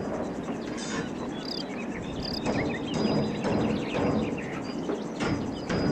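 Birds chirping in short calls, with a thin steady high tone over constant background noise.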